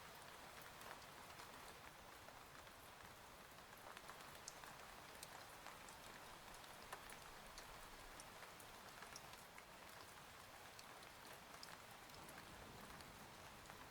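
Faint, steady rain with many scattered sharp drops tapping, as on a cabin window.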